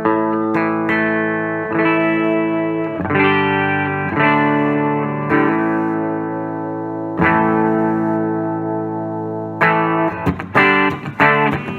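Electric guitar on its 'Fat Bottom' bridge humbucker played through a Fender Vibrolux Reverb amp: chords strummed and left to ring, several held for a few seconds, then quicker picked chords near the end.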